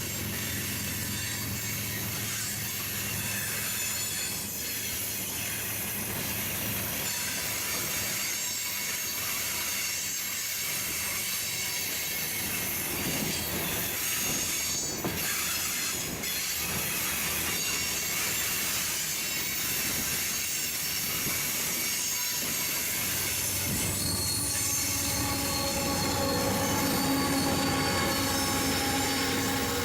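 Freight train cars rolling past, their wheels squealing with steady high-pitched tones over the rumble of the train, growing a little louder near the end.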